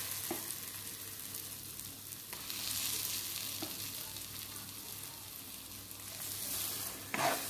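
Ground chana dal paste sizzling on hot oil and spices in a kadai: a steady hiss with a few faint ticks. Near the end a spatula starts stirring and scraping the paste through the spices.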